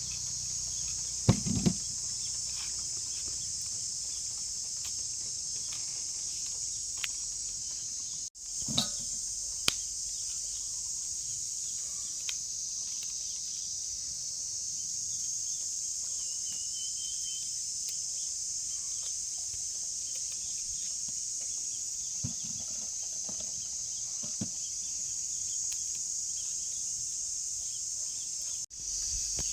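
Steady high-pitched chorus of insects, with a few sharp knocks about a second and a half in and again around nine seconds in, and a short bird call near the middle.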